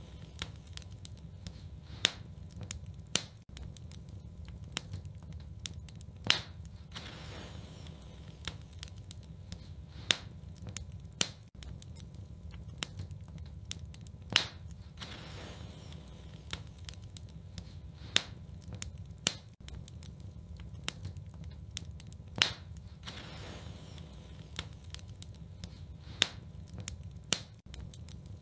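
Wood fire crackling in a fireplace: irregular sharp pops and snaps, some much louder than the rest, over a steady low rumble.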